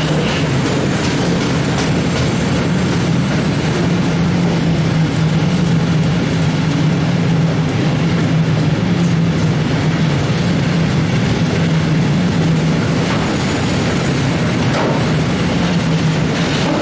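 Freight train of hooded covered wagons rolling past close by: a steady, loud rumble and rattle of wheels on rail that holds throughout.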